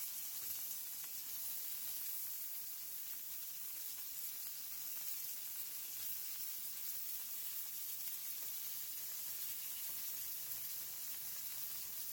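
Chicken fritters sizzling steadily in olive oil and butter in a stainless steel frying pan, at the point where they are turned over after five minutes on the first side.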